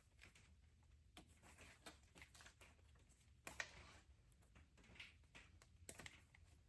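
Near silence with a few faint clicks and taps, about 1, 3.5 and 6 seconds in, as small fuel-line fittings are handled.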